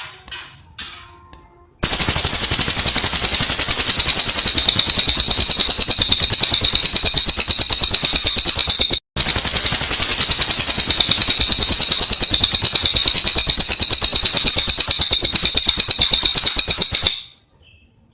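Cililin bird singing: softer scattered chirps, then a very loud, rapid chattering trill of high notes from about two seconds in, broken by one short pause midway and stopping shortly before the end.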